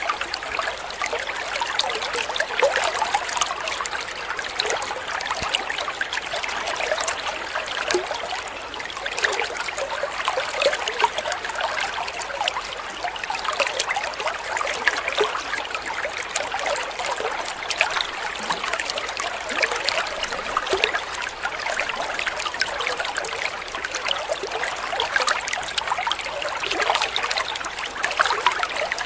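Water trickling and babbling steadily over stones, a continuous splashy flow.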